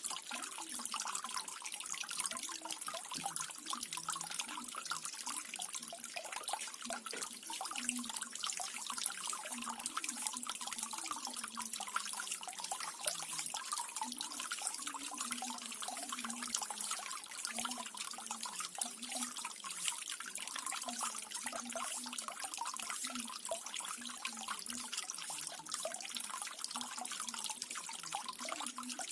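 Small garden waterfall running steadily, water trickling and splashing with many small drips and gurgles.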